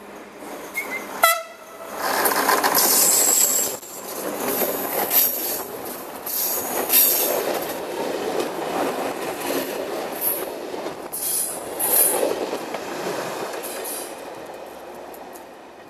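Diesel-hauled passenger train giving a short horn blast about a second in, then passing close by. The locomotive goes by loudest, followed by the rumble and clatter of the coaches' wheels on the rails, fading away near the end.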